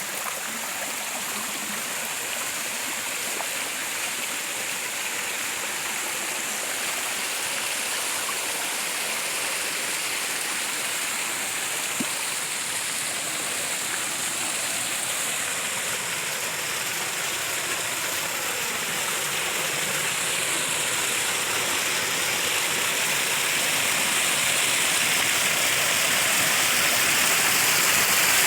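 Flowing water rushing steadily, like a stream, growing gradually louder toward the end, with one faint click about halfway through.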